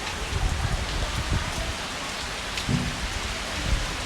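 Heavy rain falling steadily with a dense hiss, with a few low thumps or rumbles mixed in, the strongest near the end.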